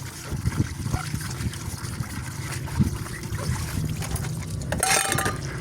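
Water sloshing and trickling in a sink as dishes are washed by hand, with small knocks of dishware throughout and a brighter clatter about five seconds in.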